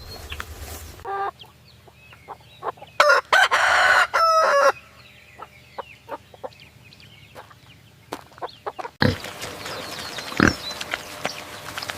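Rooster crowing once, a long loud call about three seconds in, with short clucks before it.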